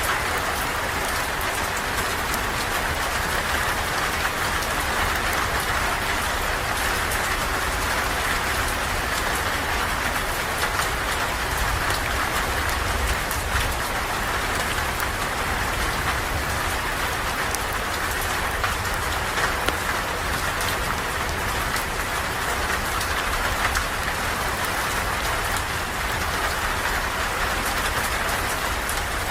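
Steady rain falling: an even, unbroken hiss with scattered drop ticks and a low rumble underneath.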